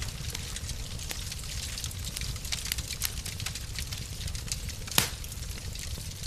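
Wood fire in a fireplace crackling steadily over a low rumble, with scattered small snaps and one loud pop about five seconds in.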